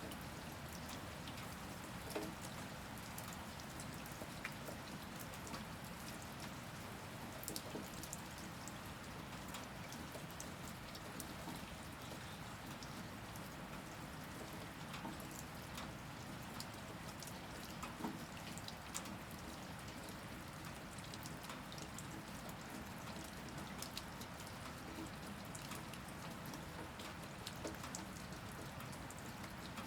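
Steady rain falling, a continuous hiss with scattered individual drops ticking and pattering on a hard surface.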